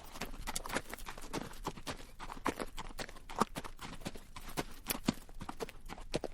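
Horse's hooves clopping on rocky dirt at a slow-to-medium pace: irregular hard knocks, several a second, some louder than others.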